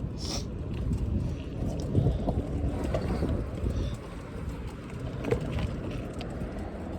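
Wind buffeting the microphone during a bicycle ride: an uneven, gusting low rumble with a few short clicks.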